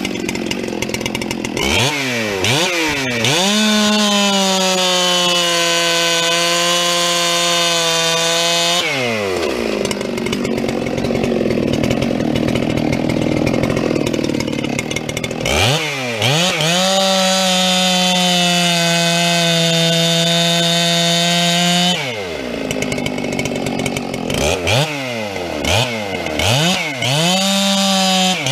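Two-stroke chainsaw revved up to a steady full-throttle scream, twice pulling down in pitch and roughening as it goes under load, with quick throttle blips before it climbs to full revs again near the end. The saw is bucking firewood.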